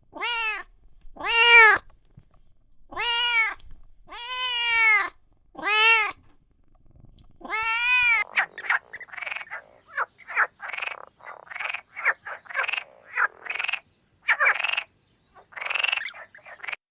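A domestic cat meowing six times, each a drawn-out rising-and-falling call. About eight seconds in, a duck takes over with a quick run of short, harsh quacks.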